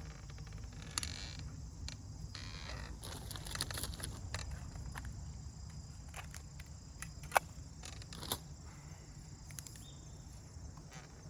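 Steady high chirring of insects with scattered clicks and light knocks. There is one sharp click about seven seconds in and another a second later.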